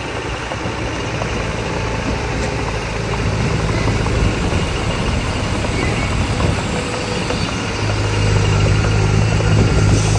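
Diesel engine of heavy earthmoving equipment running with a steady low hum, growing louder about eight seconds in.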